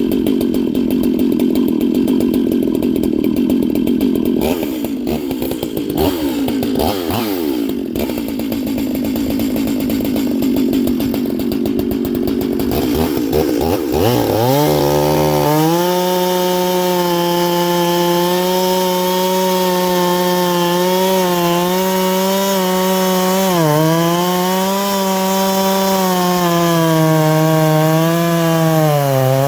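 Stihl 440/046 two-stroke chainsaw with a tuned-port exhaust and ported cylinder, running hard at high revs. The first half is a rough, noisy run; about halfway through it settles into a clear, steady high note with a few brief dips in pitch, typical of the saw holding its revs in a cut.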